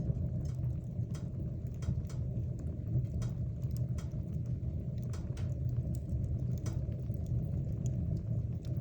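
Wood fire burning in a fireplace: a steady low rumble of the flames with irregular sharp crackles and pops from the burning wood, several a second at times.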